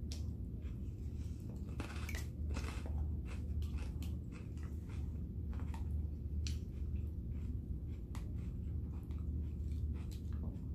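A person chewing a mouthful of chicken and noodles, with many short, soft mouth clicks, over a steady low hum.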